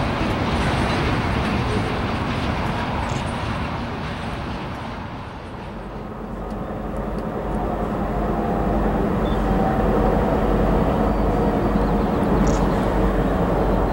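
Freight cars rolling past on the rails, a steady rumbling noise that fades about five seconds in. Then a pair of EMD diesel locomotives approaching, their engines droning at a steady pitch and growing louder.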